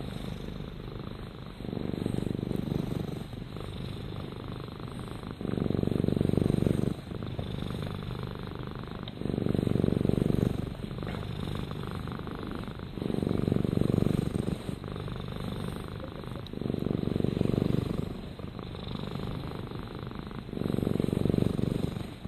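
Domestic cat purring continuously, the purr swelling louder about every four seconds, six times, and softer in between as the cat breathes.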